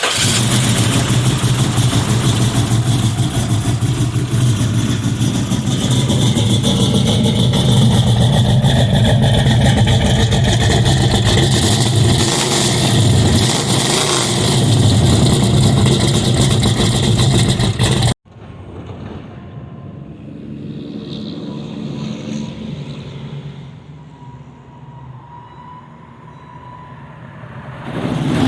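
383 stroker V8 running with a deep, steady idle and a few throttle blips. It cuts off abruptly about eighteen seconds in, followed by a much quieter engine sound that grows louder near the end.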